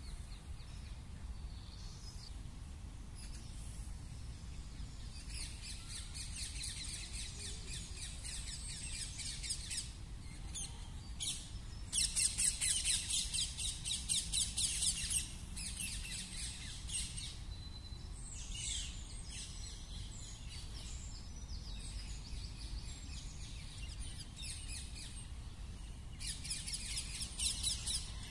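Birds chirping in bursts of fast, repeated twittering, loudest about twelve seconds in, over a steady low background rumble.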